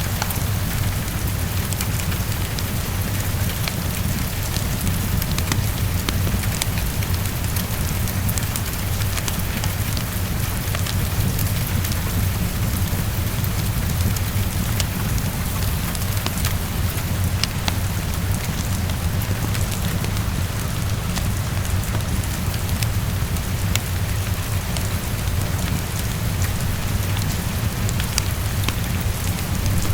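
Heavy rain on a window mixed with a crackling wood fire: a steady dense hiss over a steady low rumble, with scattered sharp pops and clicks.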